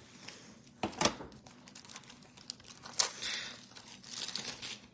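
Trading cards and their plastic packaging being handled: crinkling of wrappers or sleeves, with a few sharp clicks about a second in and again near three seconds.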